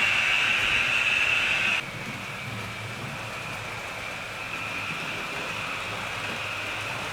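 HO scale model train running on the layout's track: a steady whirring of motor and wheels on rail that drops abruptly to a quieter level about two seconds in.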